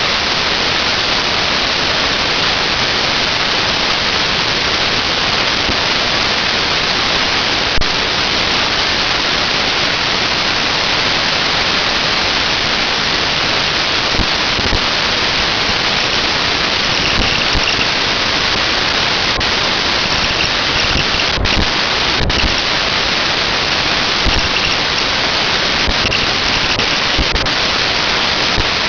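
Steady, loud rushing of a Volvo B7TL bus's engine cooling fan, the hoover-like sound, with a faint high whine coming and going in the second half.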